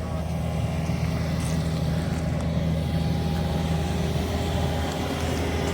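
Steady engine and road noise inside the cab of a V6 Ram pickup truck driving along, a constant low hum with tyre rumble.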